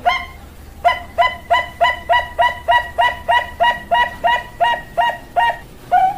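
Bangkok-bred zebra dove (perkutut bangkok) singing: an opening note, then a fast run of about fifteen short, even coos at roughly three a second, closed by one longer note near the end.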